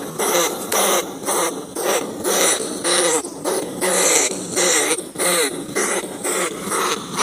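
Rats squealing and chattering in a rapid series of short, wavering calls, about two a second.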